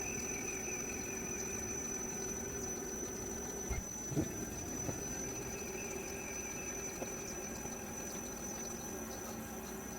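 Tormach CNC lathe running a facing cut: a steady machine hum with a higher whine that fades about four seconds in and returns a couple of seconds later, and a few faint clicks around the four-second mark.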